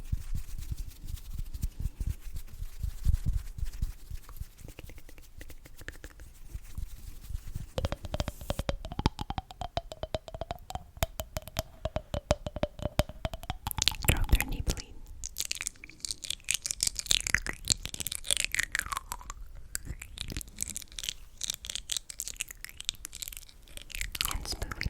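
Close-miked ASMR trigger sounds: fast, dense crackly clicking throughout, with low thumps in the first part, a wavering steady tone through the middle, and squeaky, gliding wet sounds in the last third.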